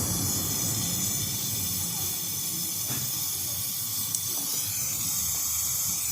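Gas brazing torch flame hissing steadily as a copper refrigerator pipe joint is brazed.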